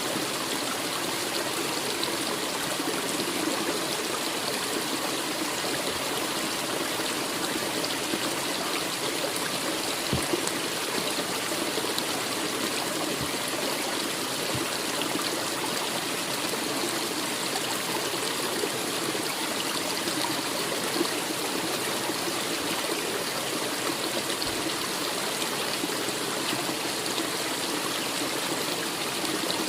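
A forest stream flowing in a steady, even rush of water, with a few faint clicks about ten to fifteen seconds in.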